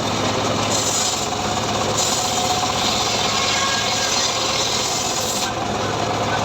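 Engine-driven homemade portable sawmill running steadily, its blade briefly cutting sengon wood about a second in and then making a longer cut for some three and a half seconds, a hissing rasp over the engine's steady hum.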